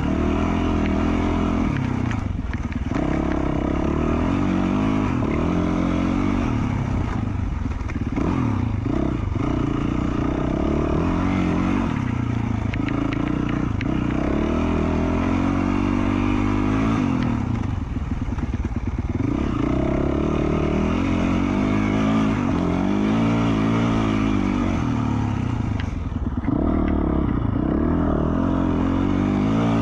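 2020 Yamaha YZ450F four-stroke single-cylinder dirt bike engine, through an FMF Q4 slip-on exhaust, revving up and down over and over as the rider works the throttle and shifts along a trail.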